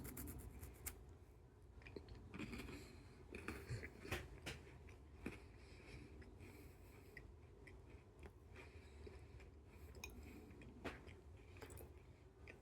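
Faint chewing of a crispy wafer bar, with scattered small crunches and clicks at irregular moments.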